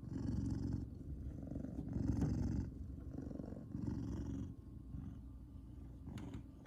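Savannah cat purring, a low buzzing purr that swells and fades with each breath, about four cycles.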